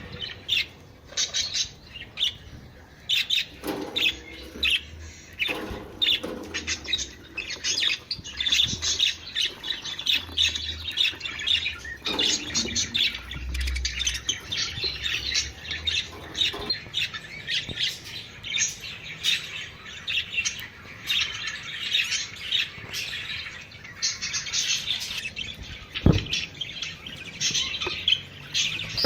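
A flock of budgerigars chattering and warbling in a dense, continuous stream of quick chirps and squawks, the budgie mating-call chatter played to get budgies breeding. A single sharp tap stands out about 26 seconds in.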